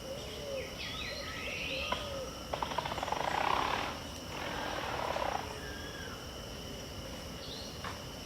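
Pantanal dawn chorus: birds giving short chirps and whistled calls over a steady high insect drone, with a loud harsh rasping call from about two and a half to four seconds in and a second, shorter one just after.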